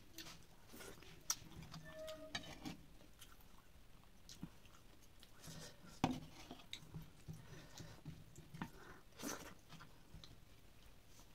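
Faint chewing of soft khichdi and broccoli curry eaten with the fingers, with scattered small clicks of food and fingers on the plates. About six seconds in there is a sharper knock, as the steel plate is tilted on the table.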